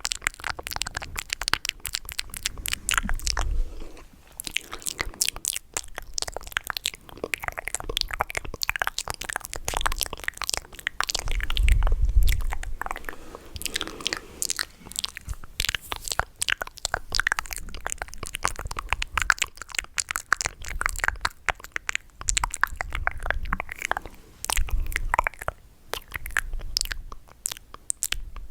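Close-miked ASMR mouth sounds: rapid wet clicks and smacks of the lips and tongue, running on without pause. A few low muffled thumps come in along the way.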